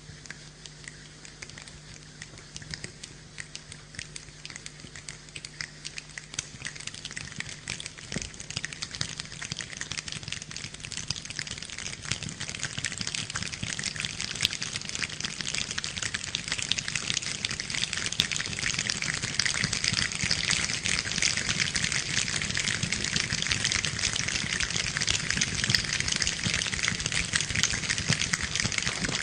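Rain falling: a dense patter of many drops that builds steadily heavier and louder, levelling off in the last third.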